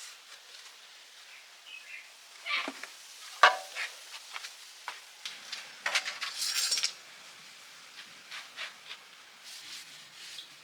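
Hand tools and metal parts being handled: scattered light clinks and knocks, one sharp knock about three and a half seconds in, and a brief scrape a little after the middle.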